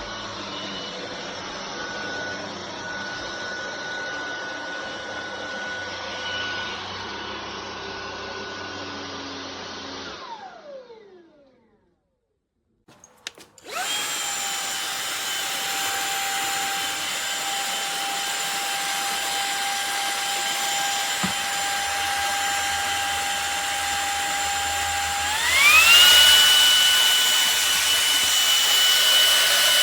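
MONSGA cordless stick vacuum's brushless motor running with a steady whine, then switched off and winding down to silence about ten seconds in. After a click it starts again, spinning up to a lower steady whine, and near the end it steps up to a higher, louder pitch as a stronger power setting is selected.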